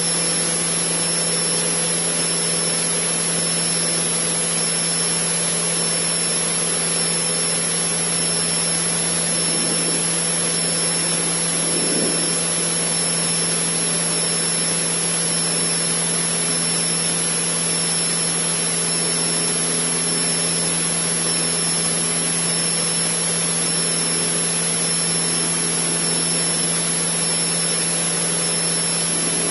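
Cessna 152's four-cylinder Lycoming piston engine and propeller at steady climb power, a constant drone with a strong steady hum and a thin high whine, heard inside the cockpit.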